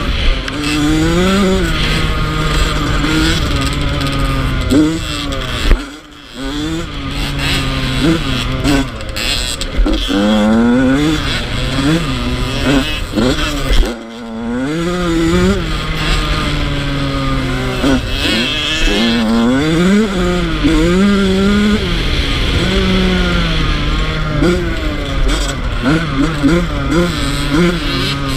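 Yamaha YZ85 two-stroke single-cylinder dirt bike engine revving hard, its pitch climbing and dropping back again and again as it is shifted and throttled. The throttle is chopped briefly twice, about six seconds in and again around fourteen seconds.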